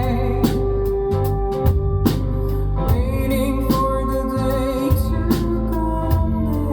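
A band playing live: a drum kit keeps a steady beat, about one hit every 0.8 seconds, under held keyboard chords and a wavering melody line.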